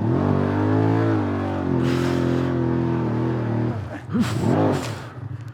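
Dual-sport motorcycle engine revved hard under load as the bike is powered out of deep silt. The pitch climbs over the first second, holds for about three seconds, then drops off with a few shorter blips near the end.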